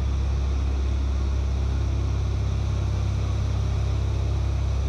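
Steady, even engine drone like a piston aircraft in cruise, with no change in pitch or level.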